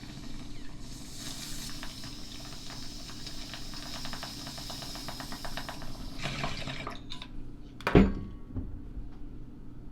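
Liquid running or being poured, with a fine crackle through it, then one sharp knock about eight seconds in.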